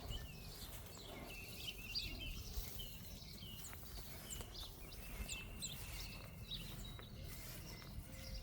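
Wild birds chirping and calling, many short high notes and quick whistles overlapping, over a faint low outdoor rumble.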